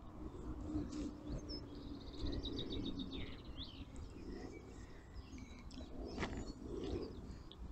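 Small birds singing and chirping, with a quick trill about two seconds in, over a faint low rumble.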